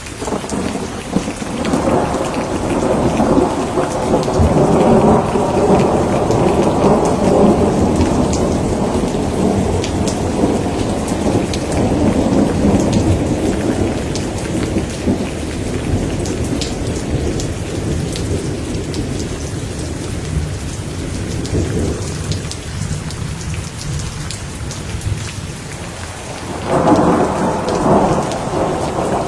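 Thunderstorm: steady heavy rain with rolling thunder that builds about a second in and rumbles on for some twenty seconds, fading, then a fresh roll of thunder starting near the end.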